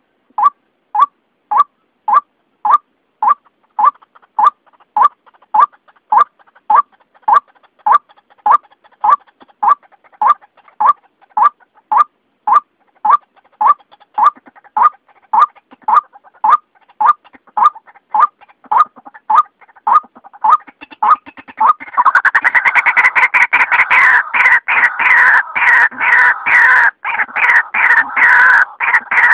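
White-breasted waterhen (ruak-ruak) lure call: a steady series of short notes, about two a second. About three quarters of the way through it breaks into a louder, faster, harsher run of calls.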